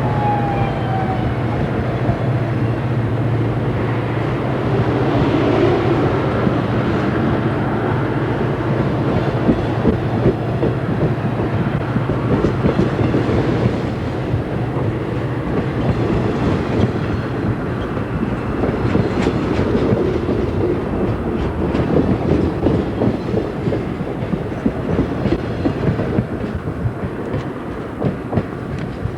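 Amtrak passenger train hauled by EMD F40PH diesels rolling past: a low diesel drone for the first few seconds, then the passenger cars go by with a steady fast clickety-clack of wheels over the rail joints, easing off near the end.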